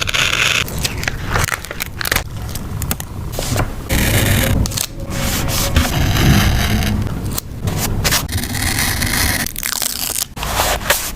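Paper and stickers being handled for a journal page: a run of irregular scraping, rubbing and peeling strokes with short pauses between them.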